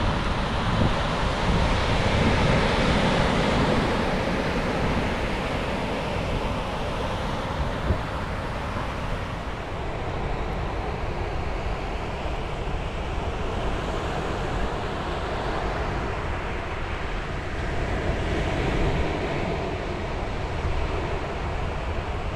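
Ocean waves breaking on the shore: a continuous surf wash that swells near the start and again near the end, with wind rumbling on the microphone.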